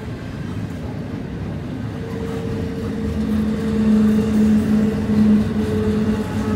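Double-stacked intermodal freight cars rolling slowly past on a curve: a steady rumble of wheels on rail. About three seconds in, a low steady tone joins the rumble and the sound grows louder.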